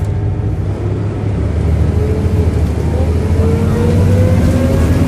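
Volvo B7RLE single-deck bus's diesel engine drone building as the bus accelerates, with a groaning whine that climbs steadily in pitch over the last few seconds.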